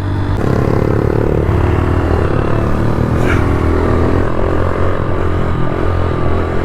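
A pit bike's small single-cylinder engine running under throttle while riding. Its pitch jumps up about half a second in, then drops back and rises and falls with the throttle.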